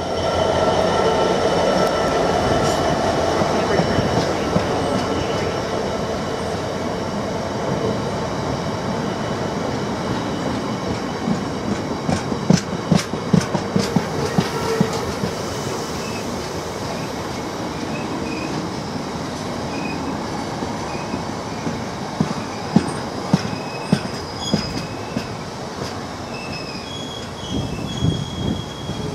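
A Class 66 diesel locomotive's two-stroke V12 engine passes at the start. A long rake of open bogie freight wagons follows with a steady rolling rumble, clusters of sharp wheel clicks over rail joints, and thin high wheel squeals in the last third.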